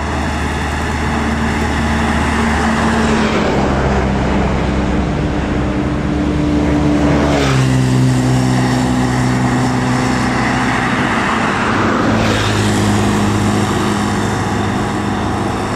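Heavy diesel vehicles, buses or trucks, passing close on a highway one after another. A steady engine drone drops in pitch about seven and a half seconds in as one goes by, with a rush of tyre and wind noise. A second pass follows around twelve seconds.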